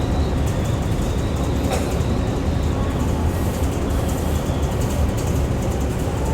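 Steady low engine and road rumble heard from inside a moving transit bus, with one faint click a little under two seconds in.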